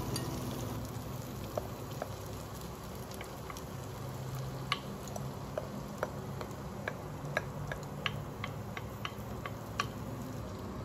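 Cabbage and carrot pancake frying in oil in a nonstick pan: a steady sizzle with scattered sharp pops. The pops come more often in the second half.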